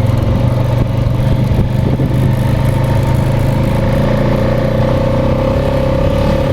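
Small vehicle engine running steadily at an even speed, with a whine that grows stronger in the second half.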